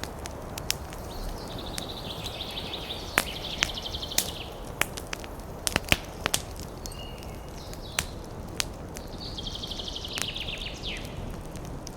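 Wood fire crackling in a fireplace: sharp pops and snaps over a low steady rumble of the flames. Twice, about two seconds in and again near the end, comes a spell of high-pitched, fluttering hiss.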